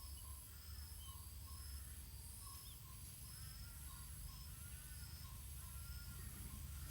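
Faint outdoor ambience of birds and insects: a steady high insect drone, short calls repeating about every half second, and arched whistled bird notes joining about three seconds in, over a low steady rumble.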